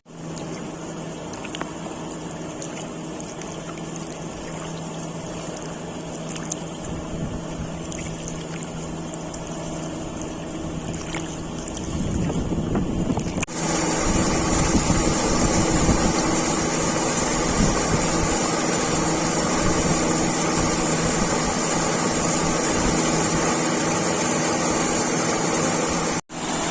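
Boat engine running steadily, with wind noise on the microphone. About halfway through it cuts to a louder, hissier stretch of the same engine and wind.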